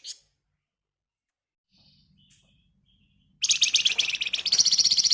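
A Flamboyan songbird giving a fast, dense rattling trill (ngebren) of evenly spaced shrill notes that starts about two thirds of the way in and lasts about two seconds, stepping up in pitch halfway through. The end of an earlier trill cuts off right at the start, and a few faint notes come in the middle.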